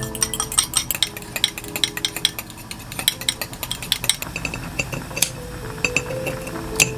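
Metal kitchen utensils clinking and scraping against dishes, many quick irregular clinks, a few louder ones about five and seven seconds in.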